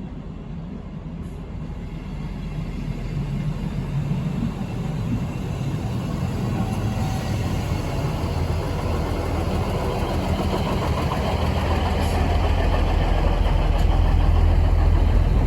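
Train approaching along the platform, its rumble and engine noise growing steadily louder.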